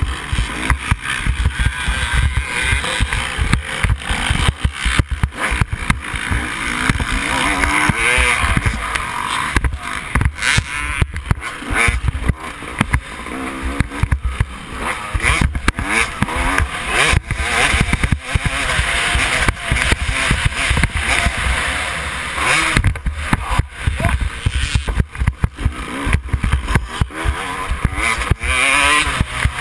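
Yamaha YZ250 two-stroke dirt bike engine racing on a motocross track, revving up and falling back again and again through the gears, with rapid buffeting and rumble on the microphone.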